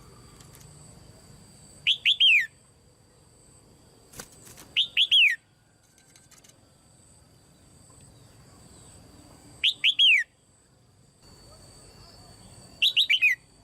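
Female red-whiskered bulbul calling: four short phrases of three or four quick falling notes each, a few seconds apart.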